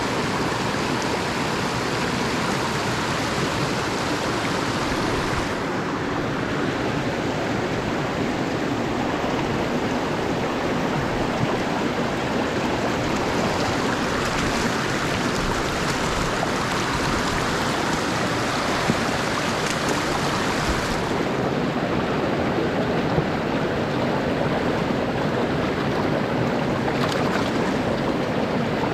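Steady rushing of mountain stream water, with a few faint clicks. The highest hiss thins out about six seconds in and again about twenty-one seconds in.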